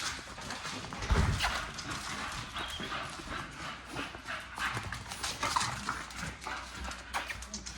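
Dogs moving about: a run of irregular footfalls and scuffs from their paws, with a heavier thud about a second in.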